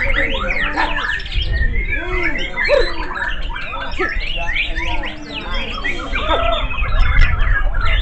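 Several caged white-rumped shamas singing at once in a contest: a dense, overlapping tangle of fast whistles, sweeps and chirps, over a low rumble.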